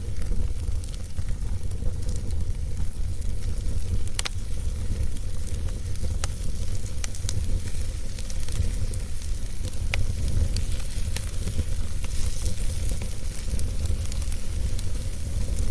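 Wood fire burning in a fireplace: a steady low rumble and hiss of the flames, with scattered sharp crackles and pops from the burning wood.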